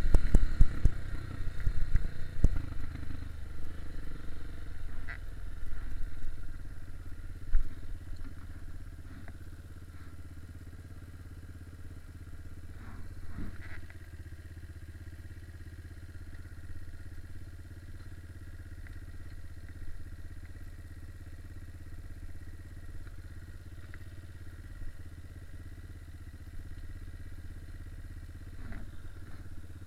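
Dirt bike engine running, louder and uneven with sharp blips through the first several seconds, then settling to a steady low idle.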